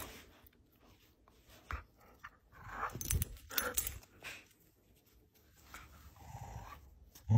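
A dog making a few short, scattered sounds, with quiet stretches between them.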